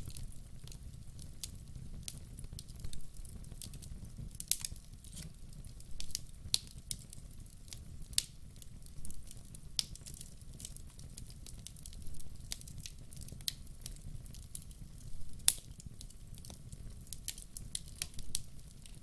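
Wood fire burning: burning logs crackle with irregular sharp pops and snaps over a steady low rumble of the flames.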